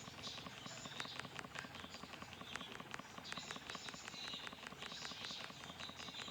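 Small fire of charcoal, ganja and orange peel crackling faintly: many small irregular ticks, with a soft high hiss.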